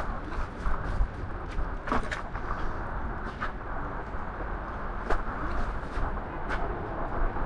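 Steady rushing riding noise from a fat-tire e-bike in motion, with scattered sharp clicks and knocks from the bike and its mounted camera.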